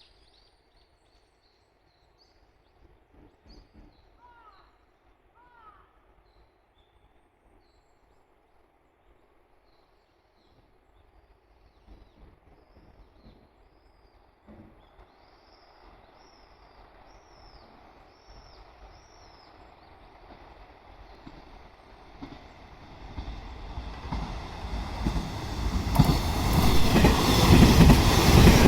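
Birds chirping in a quiet spot, then a train approaching along the line, its rumble and rail noise rising steadily from about two-thirds of the way in and loud by the end.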